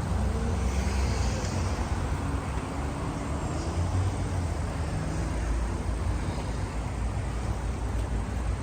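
Street traffic: a steady low rumble of running car engines.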